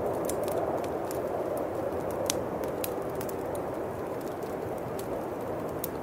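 Bonfire crackling with frequent sharp pops, one louder pop a little over two seconds in, over a steady howling winter wind.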